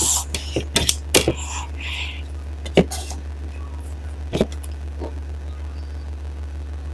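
Close-miked eating sounds of dal and rice eaten by hand: scattered wet mouth clicks and smacks, thickest in the first second and a half, with single sharp clicks about three and four and a half seconds in, over a steady low hum.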